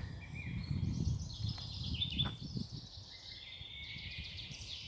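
Songbirds singing, warbling trills that run on and overlap, over a low rumble.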